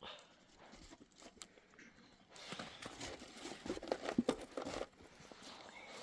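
Rustling and crackling handling noise with small irregular ticks, starting about two seconds in and easing off near the end.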